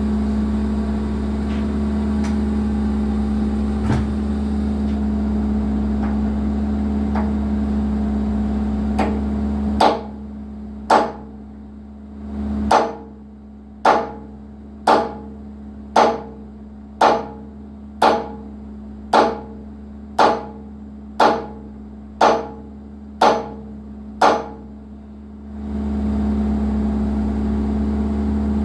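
Excavator engine running steadily, then about fifteen sharp, evenly spaced blows like a hammer striking, roughly one a second, while the engine sound drops away; the engine comes back near the end.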